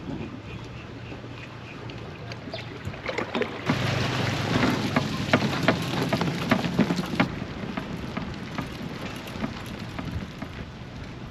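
Water splashing and lapping against a kayak on the move, with many small drips and ticks over a steady rush of wind on the microphone. It is louder for a few seconds near the middle.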